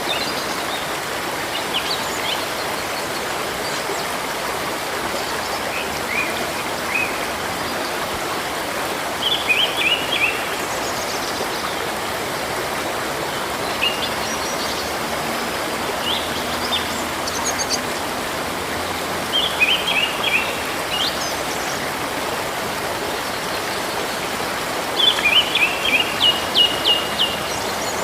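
Steady rush of flowing river water, with small birds chirping over it in several short runs of quick high notes; the longest run comes near the end.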